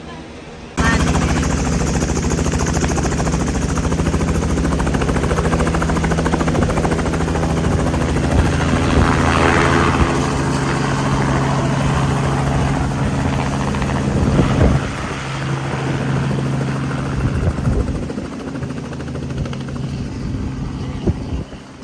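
Tour helicopter running with a steady, loud drone of rotor and engine. It cuts in suddenly about a second in and eases somewhat about two-thirds of the way through.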